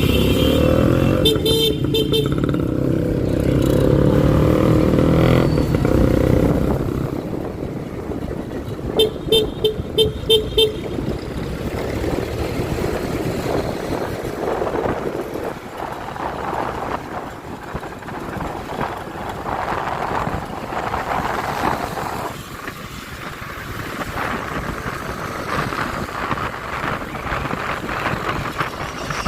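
Motorcycle riding in city traffic: engine and road noise, with a horn tooted in quick short beeps, a brief burst about a second in and five rapid toots around nine seconds.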